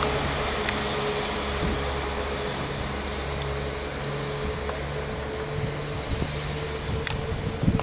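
Train standing at the station with its engine running steadily: a low hum with a steady higher tone above it, and a few faint clicks.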